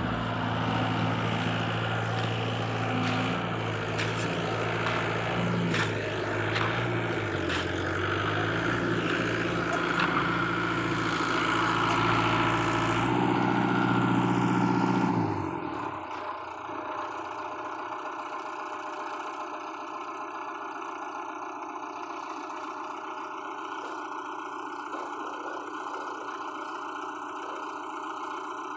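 Heavy diesel engines of earthmoving machinery working under load, the pitch dipping and rising, then about halfway through dropping suddenly to a quieter, steady running.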